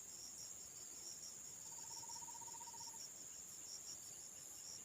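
Steady chorus of forest insects: a continuous high shrill with a fast pulsing trill just below it. About two seconds in, a faint, lower, rapid trill sounds for about a second.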